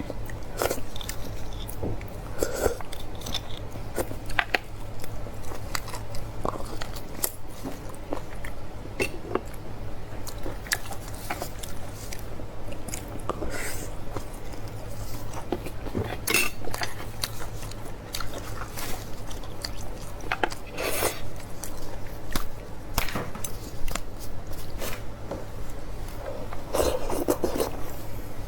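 Close-miked chewing and biting of beef bone marrow: wet smacking and crunching mouth sounds with scattered short clicks, and now and then a clink of a spoon or dish.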